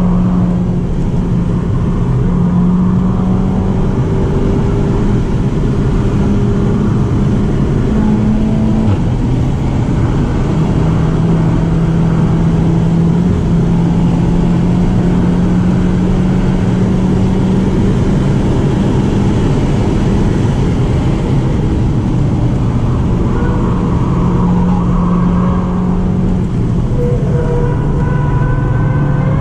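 Inside the cabin of a 2016 Seat Leon Cupra 290 under hard track driving: its turbocharged 2.0-litre four-cylinder runs loud and steady at high revs, the engine note climbing slowly and stepping in pitch a few times, over heavy tyre and wind noise.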